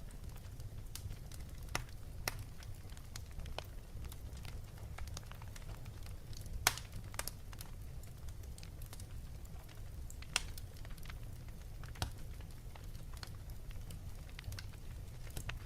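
Wood fire crackling: a steady low rumble with irregular pops and snaps, a few of them sharper and louder than the rest.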